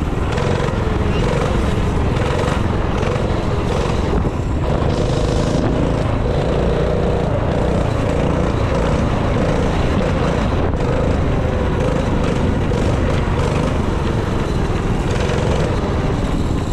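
Dirt bike engine running steadily at an even pitch, with no big revs.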